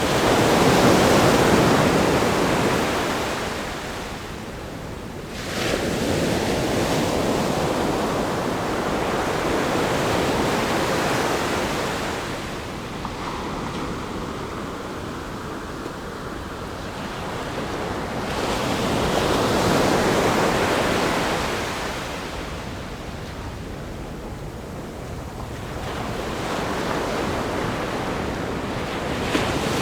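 Ocean waves crashing against a rock groin on a sandy beach: the surf rises and falls in several swells, with one wave breaking in suddenly about five seconds in.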